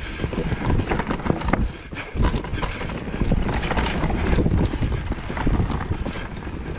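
Electric mountain bike riding over rough trail: steady tyre rumble with frequent knocks and rattles from the bike over bumps, and wind buffeting the microphone.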